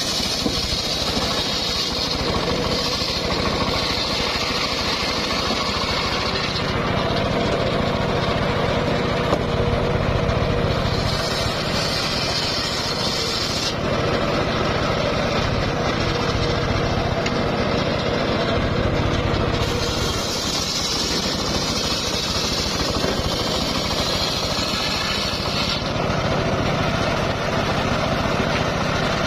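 Circular sawmill running steadily while it cuts a log, with a higher hiss that comes and goes in stretches of a few seconds as the blade works through the wood.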